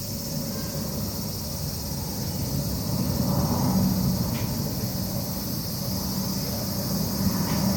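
Steady high chirring of an insect chorus over a low, even hum, which swells slightly about three seconds in.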